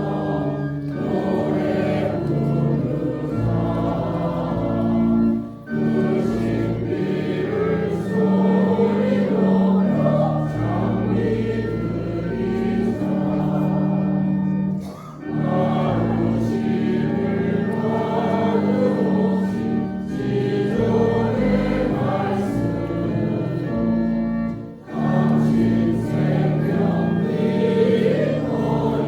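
Choir singing a hymn with organ accompaniment, in sustained phrases with three short breaks between them, about 6, 15 and 25 seconds in.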